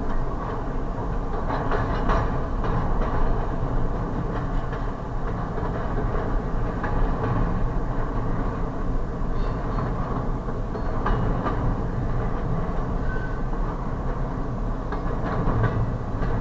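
Freight train of double-stack intermodal container well cars rolling past a grade crossing: a steady rumble of steel wheels on the rails, broken by scattered clicks and clanks.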